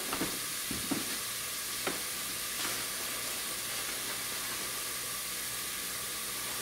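Shredded bobcat meat with peppers, onions and mushrooms sizzling steadily in a pan as it warms through, with a few faint clicks.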